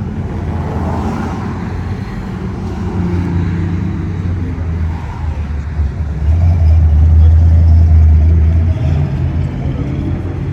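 Classic car engines running low and rumbling as cars cruise past, swelling loudest about six seconds in as one car goes by, then easing off.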